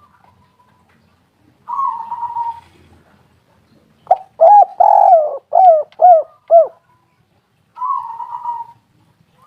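Spotted dove cooing. A soft rolling phrase comes about two seconds in, then a loud run of coos from about four to seven seconds, with one long coo followed by several short falling notes. Another soft rolling phrase comes near the end.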